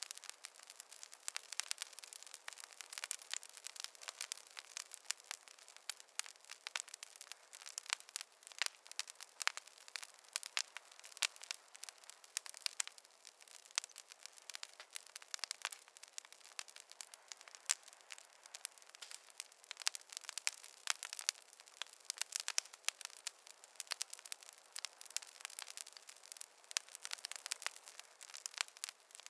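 Wood fire crackling: a steady, dense run of sharp pops and snaps from burning logs, thin and with no low rumble.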